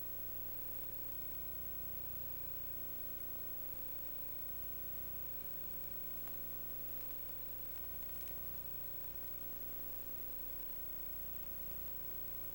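Steady electrical hum with several fixed tones over an even hiss, and one faint click about six seconds in.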